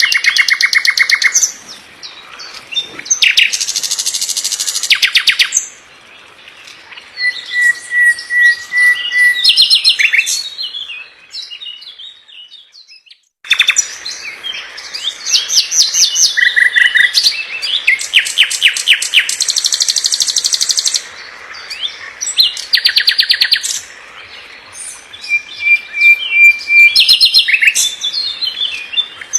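Songbird singing a dense, fast song of rapidly repeated trills, buzzy rattles and short whistles. The song drops away about twelve seconds in and starts again abruptly a second or so later.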